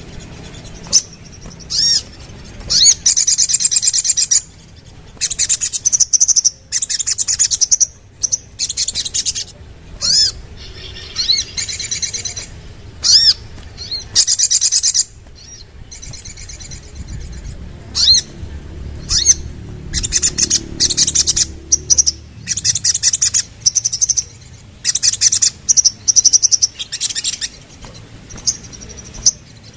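Little spiderhunter (sogok ontong) calling: loud bursts of rapid, high-pitched chattering notes, one after another with short gaps in between.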